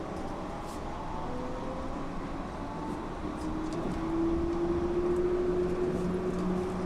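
Yurikamome rubber-tyred automated guideway train running, heard from on board: a steady rumble under several faint motor whines that slowly rise in pitch. It grows louder after about four seconds as the train picks up speed.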